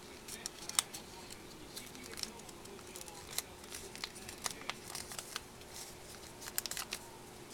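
Origami paper being folded and creased by hand: scattered crisp rustles and clicks of the sheet, over a faint steady hum.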